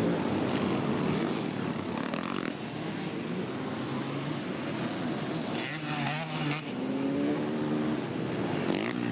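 Honda CRF300 single-cylinder engine being ridden hard, the revs rising and falling repeatedly as the throttle is worked.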